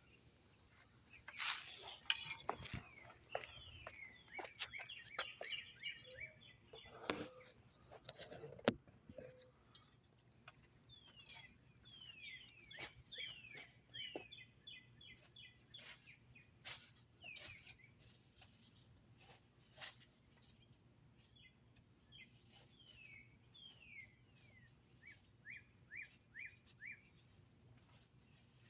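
A songbird singing runs of quick, downward-sliding chirps, repeated many times, while knocks and scrapes from a hole being dug in soft ground come and go, most often during the first nine seconds.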